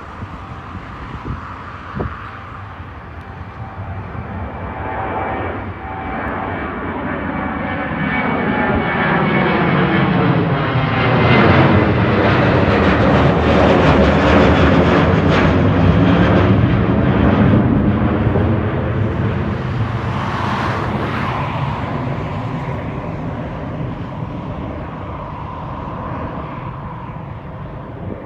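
Jet airliner passing the airport perimeter: engine noise builds for about ten seconds, peaks midway, then slowly fades, with a sweeping hollow phasing as the aircraft goes by.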